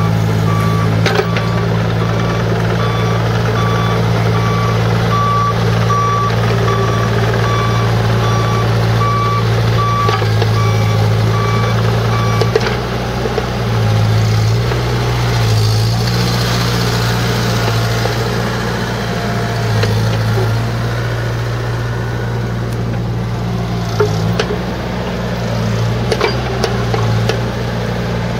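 Bobcat 334G mini excavator's diesel engine running steadily while its travel alarm beeps at an even pace; the beeping stops after about twelve seconds and the engine note then rises and falls as the machine works.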